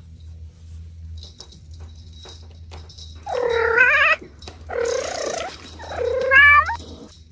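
A cat meowing three times in a row over a steady low hum. Each call lasts just under a second and wavers in pitch; the last one rises at the end.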